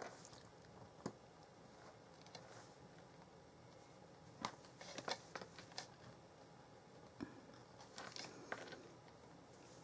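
Faint, scattered taps and clicks of paper card and small craft tools being handled on a work surface, a few at a time with quiet between.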